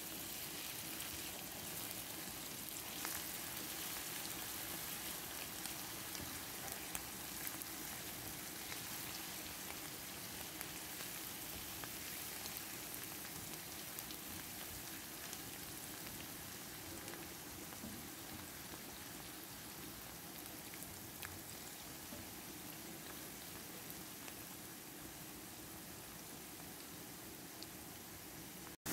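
Chopped onions, garlic and ginger sizzling in hot oil in a frying pan: a steady frying hiss with a few faint crackles.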